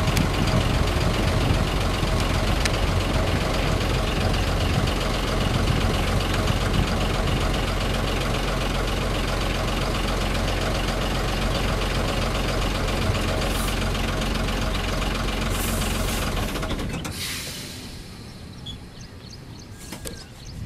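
Diesel-hauled passenger train pulling away: a steady low engine rumble mixed with the rolling of the coaches, which fades out suddenly about seventeen seconds in. A few faint bird chirps follow near the end.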